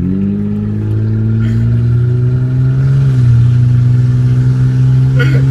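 2006 Hyundai Sonata V6 running open header, with its mufflers, resonator and catalytic converter removed: a loud, deep, steady exhaust drone at light throttle, rising slightly in pitch near the start and again about three seconds in.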